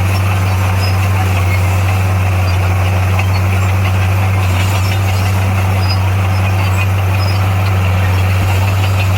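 Heavy diesel engine of earthmoving equipment running steadily, a deep, unchanging hum at constant speed.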